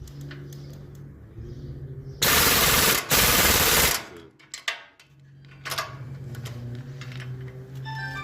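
Air impact wrench rattling in two bursts of about a second each, tightening nuts on the brake conversion hardware, with a steady low hum before and after.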